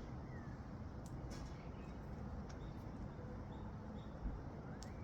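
Faint short bird chirps, a few brief calls and glides, with a few sharp clicks over a steady low background rumble.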